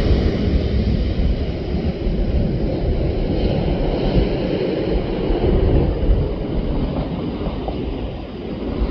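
Jet engine noise of a passing Boeing 737 airliner dying away: the higher whine fades over the first second or two, leaving a low rumble. Wind buffets the microphone throughout.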